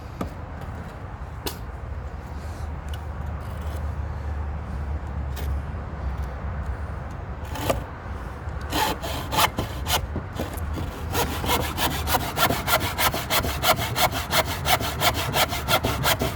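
Handsaw cutting through timber: slow, uneven strokes at first, then a fast, steady run of about three strokes a second in the second half.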